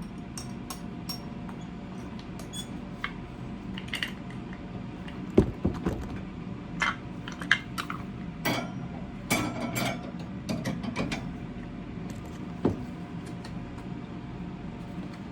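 Light clinks, clicks and knocks of objects being handled, scattered irregularly over a steady low hum.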